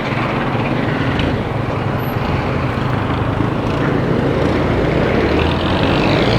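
Motorcycle engine running steadily while riding, with road and traffic noise, picked up by a helmet camera's external microphone under a furry windscreen.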